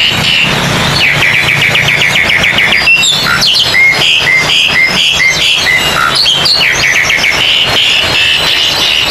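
Oriental magpie-robins singing loudly in a dense chorus of competing songbirds, with rapid runs of repeated notes, chattering phrases and short whistles overlapping one another.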